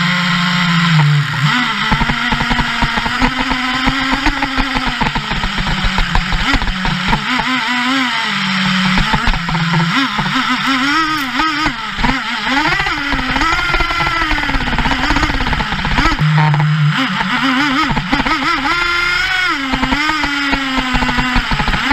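Traxxas T-Maxx 3.3 nitro RC truck's small two-stroke glow engine revving up and down again and again, with short drops back to a steady idle at the start, about nine seconds in and again about sixteen seconds in.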